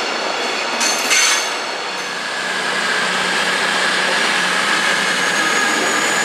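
A Virgin Pendolino electric train passing on the rails, with clicks and a high squeal about a second in. From about two seconds in comes a Virgin Voyager diesel multiple unit running past, a steady engine drone with a held whine.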